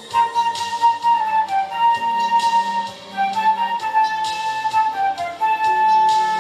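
School orchestra playing a slow melody carried by flute, with held notes stepping gently from one to the next over lower sustained accompaniment.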